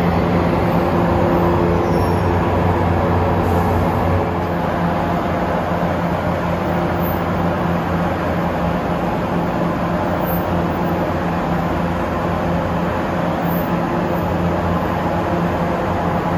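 Passenger train's steady mechanical hum with several low tones, dropping a little in level about four seconds in.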